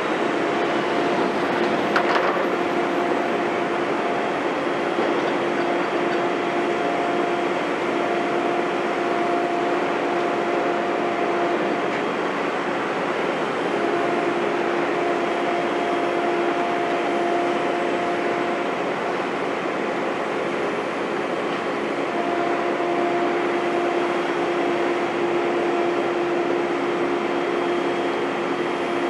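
Heavy construction machinery running steadily, with a humming tone that drops out for a second or two now and then and a single sharp knock about two seconds in.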